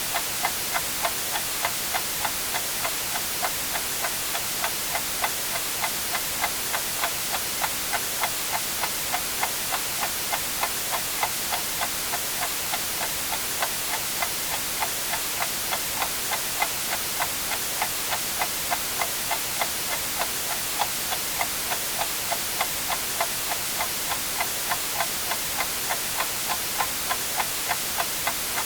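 Mechanical clock ticking steadily, about two ticks a second, over a constant bed of white noise hiss.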